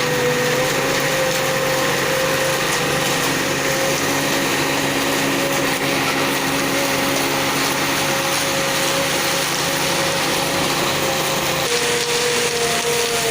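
Ajex Fiori self-loading concrete mixer running steadily, with a held whine over a wide machine hiss; the whine drops slightly in pitch near the end.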